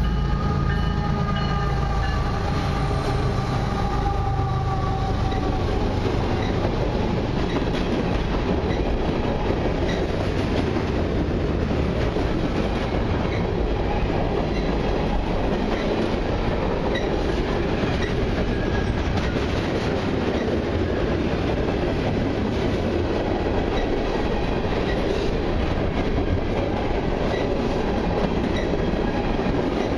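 A freight train passing close by. Two diesel locomotives go by first, their engine drone fading over the first few seconds. After that a long string of coil steel freight cars rolls past with a steady rumble and the clickety-clack of wheels over the rail joints.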